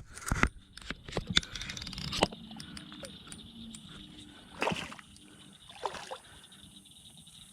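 Hooked catfish splashing in the water as it is netted: several sharp splashes and knocks at uneven intervals, with water sloshing between them.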